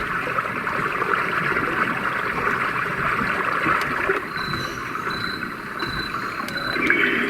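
Roffie white noise machine playing one of its recorded nature tracks through its speaker: a steady rushing like running water.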